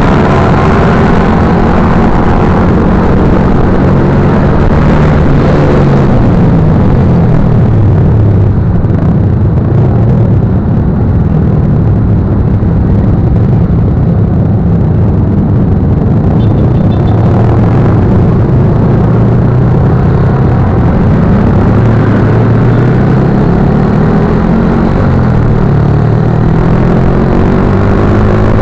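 Motorcycle engine running while riding, loud and steady, its pitch rising and falling several times as the revs change, over steady rushing noise.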